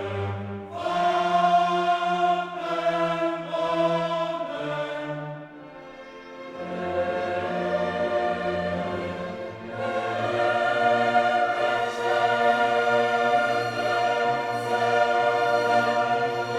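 Background music: a choir singing slow, held chords with orchestral accompaniment. It dips briefly about six seconds in, then swells fuller.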